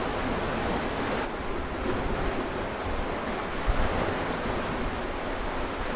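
Steady, even rushing of sea surf and wind.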